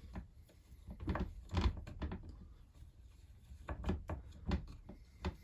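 Irregular knocks and clicks of a hand tool working on the bolts and casing parts of a Husqvarna 346XP chainsaw during disassembly, about seven separate taps spread across a few seconds.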